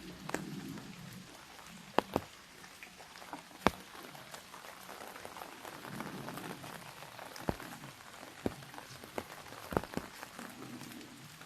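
Rain on an umbrella: a steady patter, with sharp single taps from heavier drops striking the canopy at irregular intervals.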